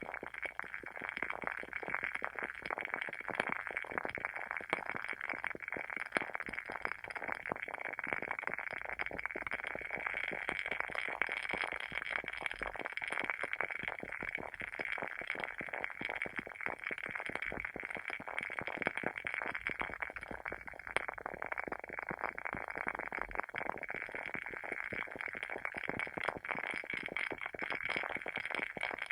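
Wooden wick of a WoodWick candle burning with a steady, dense crackle of many small pops.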